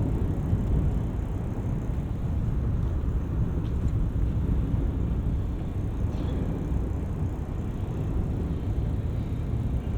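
Steady low rumble of car traffic running along a road bridge, heard from a moving bicycle.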